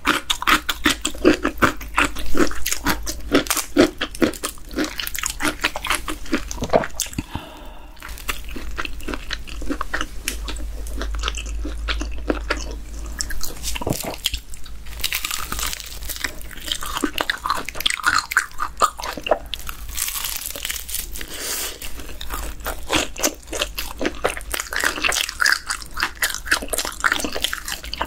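Crunching and chewing of crispy fried chicken coated in cheese seasoning powder: many small crisp crunches in quick succession, with no pause.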